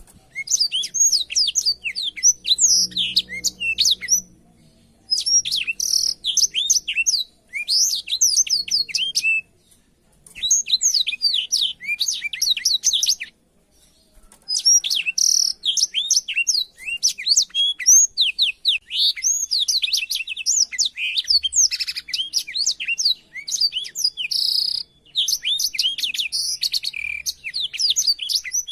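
Black-throated canary (blackthroat) singing fast, high, twittering song phrases of a few seconds each, broken by several short pauses.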